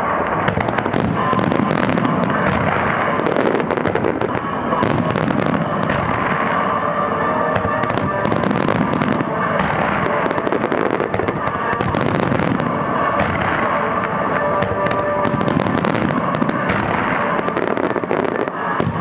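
Fireworks display going off without a break: aerial shells bursting in quick succession with crackle, over a row of ground fountains firing, with show music playing underneath.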